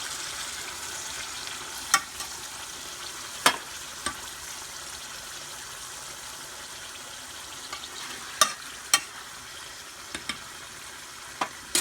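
Cubed chicken with onions and garlic sizzling in a pan with a steady hiss, just after tomato sauce is poured in. A utensil knocks sharply against the pan several times as it is stirred.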